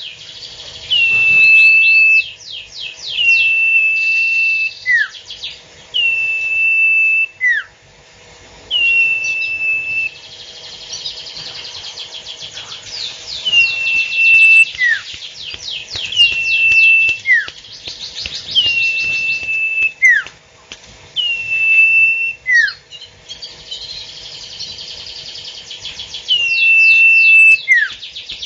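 A songbird singing the same phrase over and over, every two to three seconds: a fast rattle of high ticks, a held high whistle, then a short falling note.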